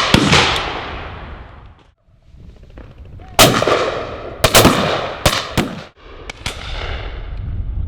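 Shotguns firing at driven high pheasants. One shot near the start, then from about three seconds in a quick run of seven or eight shots, often in close pairs, each trailing off in a long echoing roll.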